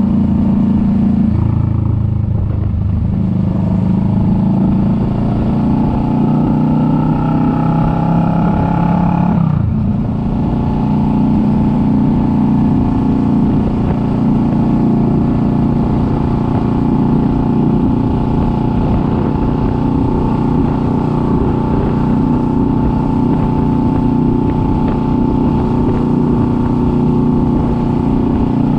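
Kawasaki Vulcan S 650's parallel-twin engine running on the road. Its pitch climbs steadily for several seconds, drops sharply about ten seconds in as the rider shifts up, then holds steady at cruising speed.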